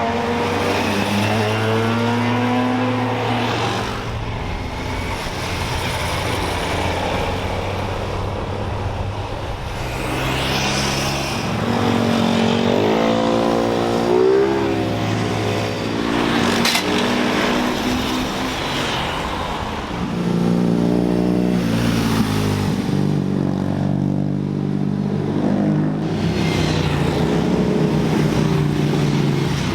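A succession of high-performance vehicles passing one after another, engines revving up and dropping back through gear changes as each goes by.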